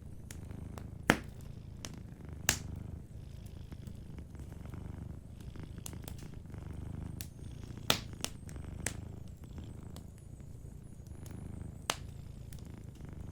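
A cat purring steadily, a low rumble that swells and eases with each breath, while a wood fire crackles with a few sharp pops, the loudest about a second in and near the middle.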